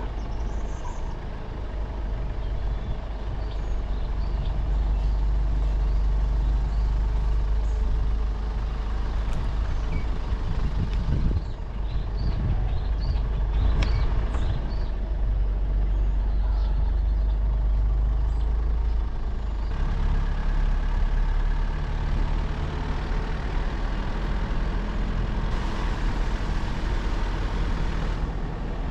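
A car driving: a steady low rumble of engine and tyres, with a few knocks and rattles around the middle. The engine note shifts about two-thirds of the way through.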